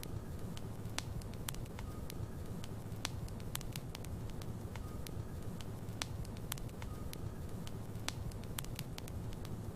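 Wood logs burning in a fireplace: a steady low rumble of flame with frequent sharp crackles and pops, and now and then a faint brief whistle.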